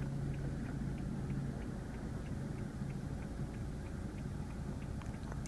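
Low steady hum of a 2014 BMW 328i's turbocharged four-cylinder idling, heard inside the cabin; a steady low tone in it fades about a couple of seconds in. Faint regular ticks come about three times a second.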